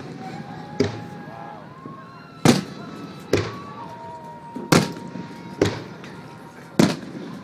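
Aerial firework shells bursting: six sharp booms, roughly one a second, each dying away quickly.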